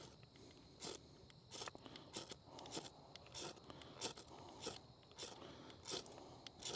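A handheld fire starter being struck again and again, about a dozen short, sharp scrapes roughly every half second, as he tries to light a fire plug tinder that has not caught.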